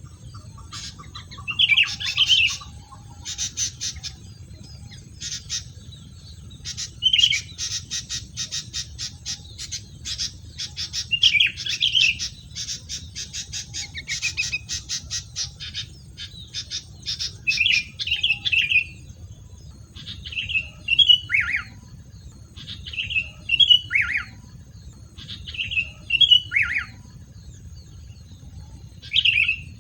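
A wild bird calling: loud squawking notes mixed with fast rattling chatter, then, from about twenty seconds in, three calls that each end in a sharp downward slide. A faint steady high whine runs underneath.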